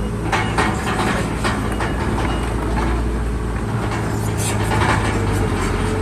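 Bulldozer's diesel engine running steadily under load, with a series of short metallic clanks and knocks over it.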